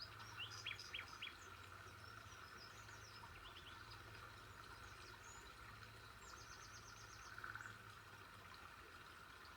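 Faint wild birdsong: a few short, quick chirps about a second in, scattered higher calls, and a fast trill of about eight notes around six and a half seconds, over a steady faint drone.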